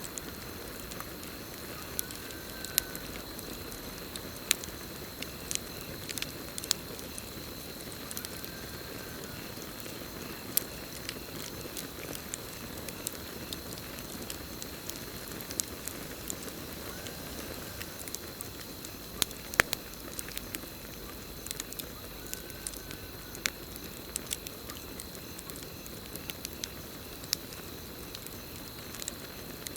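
Campfire burning and crackling, with scattered sharp pops over a steady soft hiss, under a steady high cricket trill. A short faint call comes about every six seconds.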